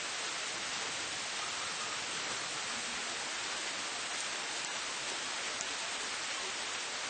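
Steady rain falling in a city, an even hiss with a few single drops ticking out now and then.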